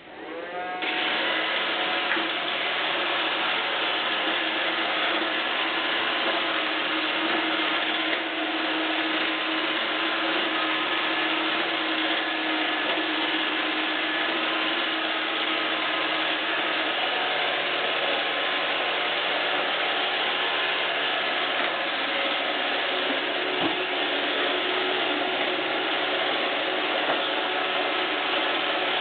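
iRobot Roomba 564 Pet robot vacuum running, its motor and brushes making a steady mechanical whir with a ratcheting, gear-like rattle, coming up to full level in the first second.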